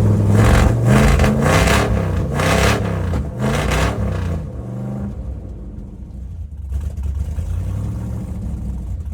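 Ford F-150 burnout truck's engine being revved, its pitch rising and falling several times. About five seconds in it drops back to a steadier, quieter run.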